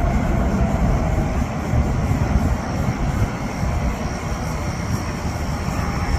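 Jet engines of a Boeing 777-300 running with a steady, dense roar heavy in the low end. A thin high whine joins about halfway through.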